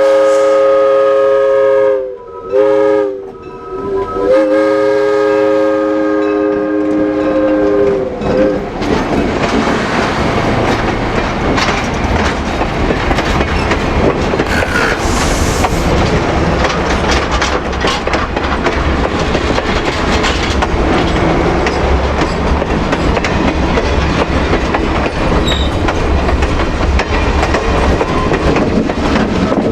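Diesel locomotive horn sounding a chord of several notes: a short break, a short blast, then a long blast ending about eight seconds in. The train then passes close by with diesel engine rumble and the clatter of wheels over rail joints.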